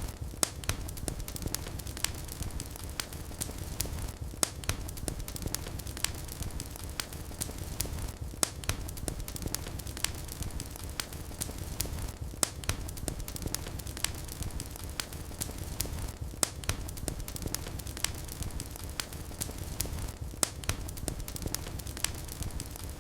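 Wood fire burning in a fireplace: a steady low rumble of the flames with irregular sharp crackles and pops several times a second.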